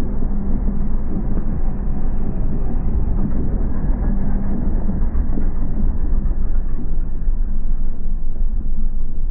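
Steady low rumble of the 1980 Pontiac Trans Am's turbocharged 4.9-litre V8 idling, heard dull and muffled from underneath the car.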